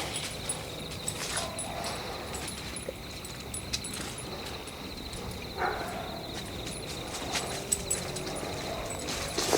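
Night forest ambience: a steady high insect trill runs under scattered small cracks and rustles, as of steps through undergrowth. A little past halfway comes one short, lower sound.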